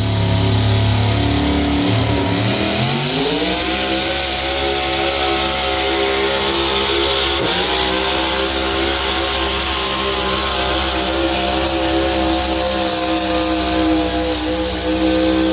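Competition pulling tractor's engine under load. It runs lower for about two seconds, climbs in revs, then holds steady at high revs for the rest, with a high whine above it that slowly rises.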